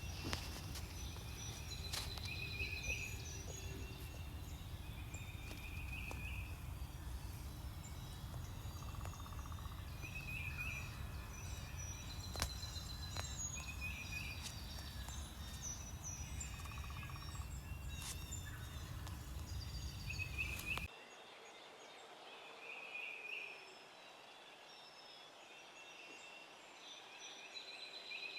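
Wild turkey gobbling repeatedly at a distance, over a chorus of songbirds. Low wind rumble on the microphone cuts off suddenly about two-thirds of the way through.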